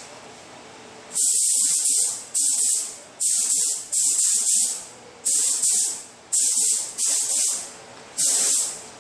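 Compressed-air paint spray gun spraying epoxy primer: a loud, high hiss in short trigger pulls, about eight bursts of under a second each.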